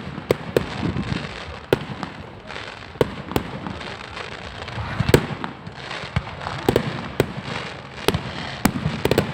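Fireworks going off: about a dozen sharp bangs at irregular intervals over a steady hiss, the loudest about five seconds in.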